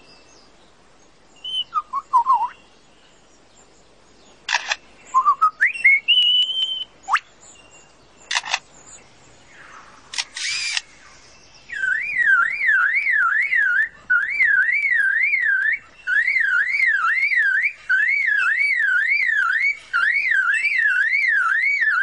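Lyrebird mimicking: a few bird calls and sharp camera-shutter-like clicks, then from about halfway a siren-like warble that sweeps up and down about twice a second, like a car alarm, in runs with short breaks.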